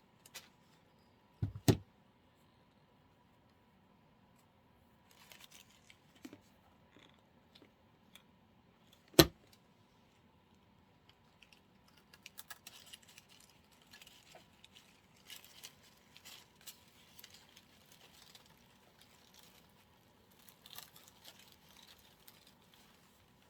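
Artificial flower stems being handled: a few sharp clicks or knocks, the loudest about nine seconds in, then intermittent light rustling and crackling of the plastic leaves and petals.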